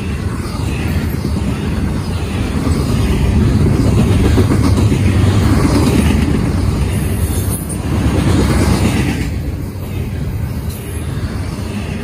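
Norfolk Southern double-stack intermodal train's loaded well cars rolling past, a steady heavy rumble of steel wheels on rail that swells louder in the middle and eases near the end.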